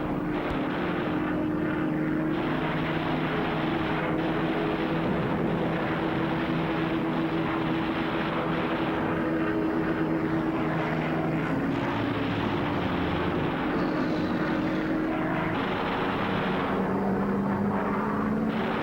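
Propeller-driven aircraft's piston engine droning steadily in flight, with the pitch rising slightly near the end.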